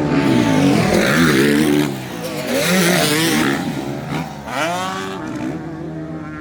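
Several motocross dirt bikes revving on the track, their engine notes overlapping and rising and falling in pitch; one bike revs up sharply about four and a half seconds in.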